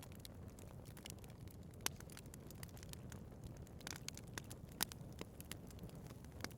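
Wood fire burning in a fireplace: a steady low rumble of flames with irregular crackles and sharp pops from the burning wood, two louder snaps about two and five seconds in.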